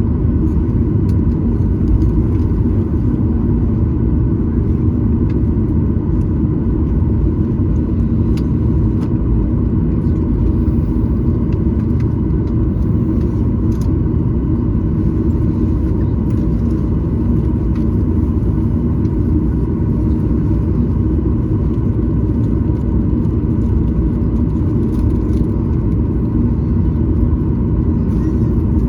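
Steady, loud cabin rumble of a Boeing 737-900ER with its CFM56-7B jet engines running, heard from inside the passenger cabin, with a faint steady whine above the rumble.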